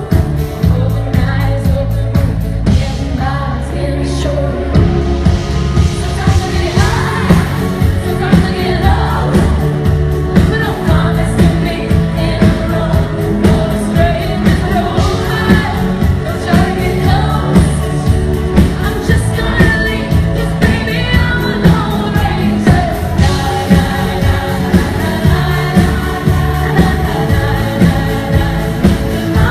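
Live pop song: a female lead vocal sung over a full band with a steady drum beat.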